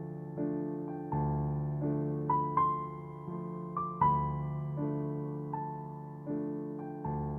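Background music: slow, gentle piano, notes and chords struck about once a second and left to ring and fade.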